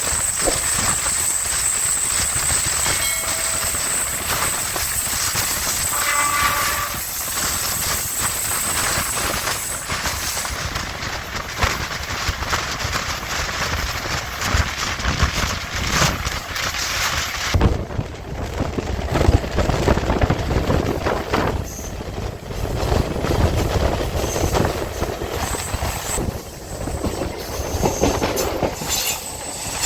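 MEMU electric train running along the track, heard on board: steady running noise with the wheels clattering over rail joints. A high thin whine carries through about the first ten seconds.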